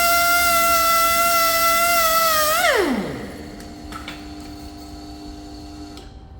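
A power tool's electric motor runs at speed with a steady high whine, then is switched off about three seconds in and spins down, its pitch falling quickly away.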